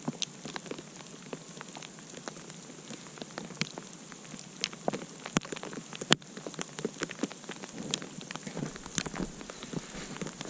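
Campfire crackling in the snow: irregular sharp pops and snaps over a steady hiss of burning, the fire now well caught.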